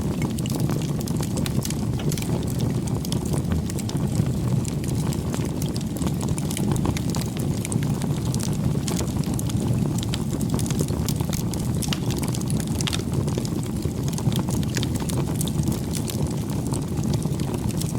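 Campfire burning steadily: a low rumble of flame with frequent small, sharp crackles and pops from the burning wood.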